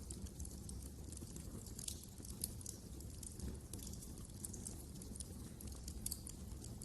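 Wood fire burning in a fireplace: a low steady rumble of flames with irregular sharp crackles and pops, several a second.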